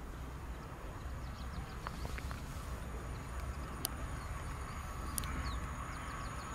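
Small birds chirping over a low steady rumble, with the hum of an approaching PESA 730ML diesel multiple unit growing near the end.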